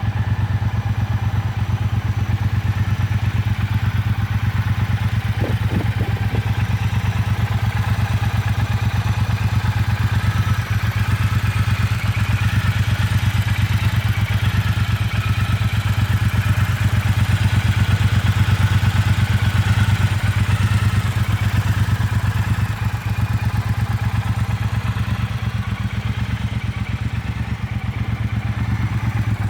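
Triumph Bobber Black's 1200 cc parallel-twin engine idling steadily, with no revving.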